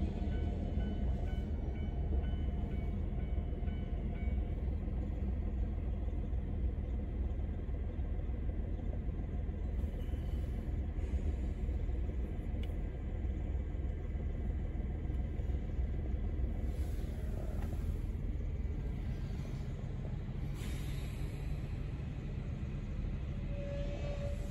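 Steady low rumble of a car's engine and cabin, heard from inside the car.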